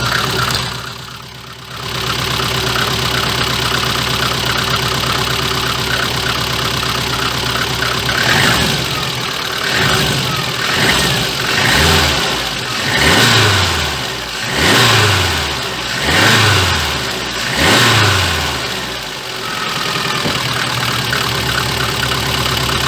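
VAZ-2114 car engine idling, then revved in short throttle blips about half a dozen times before settling back to idle, with a low bass from a blowing muffler. No clatter is heard as the throttle is released: the clank on lift-off is gone after the crankshaft pulley was cleaned and refitted.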